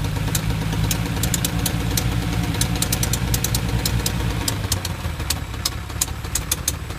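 Ferrari 400's V12 engine idling on its first run after sitting unused since 2008, with many sharp, irregular ticks over the steady hum. The idle settles lower about four and a half seconds in.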